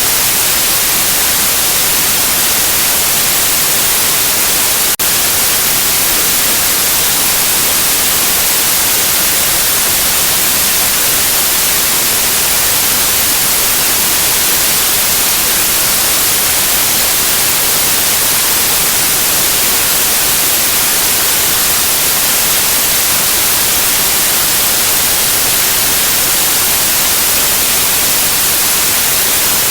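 Steady white noise: an even, loud hiss that is brightest in the high frequencies. About five seconds in there is a momentary dropout.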